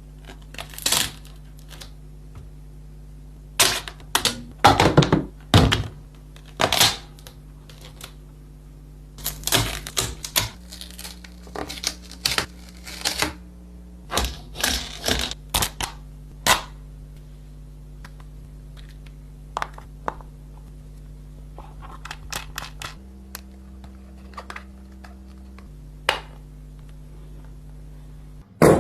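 3D printer at work: a steady motor hum whose pitch shifts in steps a few times, with many sharp clicks and knocks coming in irregular clusters.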